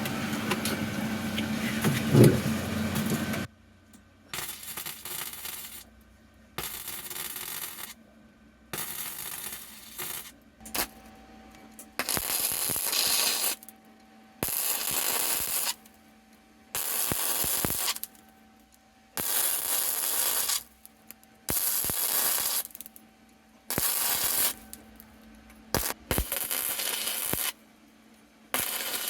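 Wire-feed welder stitch-welding small sheet-metal patches into a car's transmission tunnel: one longer run, then about a dozen short bursts of arc noise, each a second or two long, with brief pauses between.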